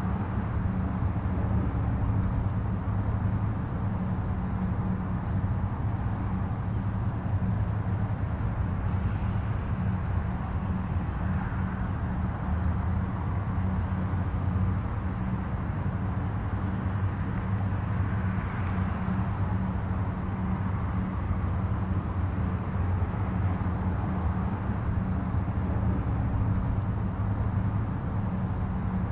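Distant highway traffic: a steady low rumble of tyres and engines, with faint passing swells and no single vehicle standing out.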